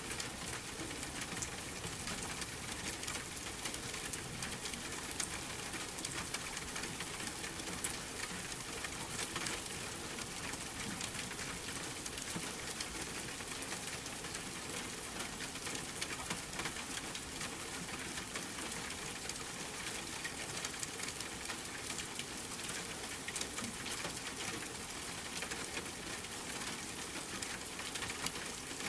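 Steady rain with a wood fire crackling, small pops scattered throughout.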